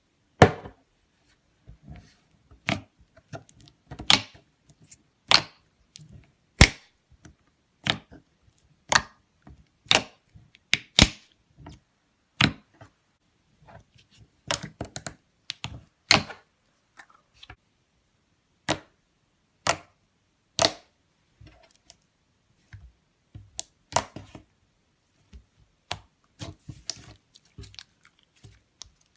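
Slime being worked by hand, giving a run of sharp clicks and pops about once a second, some coming in quick clusters, with silence between.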